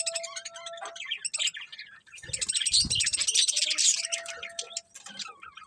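Budgerigars chirping and chattering, several rapid chirps overlapping, busiest and loudest from about two seconds in to about four seconds.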